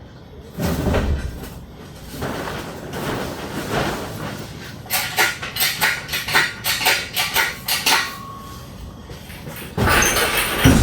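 Metal clanks and knocks from shop work, with a quick run of sharp rattling clicks midway and a heavy thump near the end.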